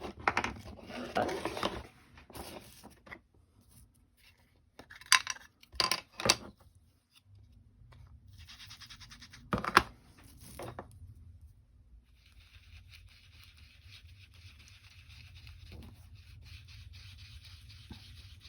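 Foam ink-blending tool rubbing and swirling over paper through a stencil, a fine steady scratchy rubbing that runs longest in the second half. A few sharp clicks and taps come in the middle as tools and ink pads are handled.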